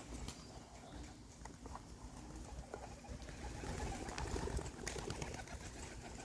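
Racing pigeons cooing softly, with a few faint ticks.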